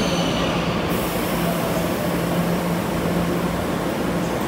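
Puyuma express electric multiple unit rolling slowly into a station: a steady rumble with a low hum, and a high hiss that comes in about a second in.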